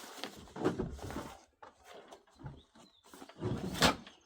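Rustling and scraping handling noises from a chainsaw being moved into place, with a louder scrape near the end.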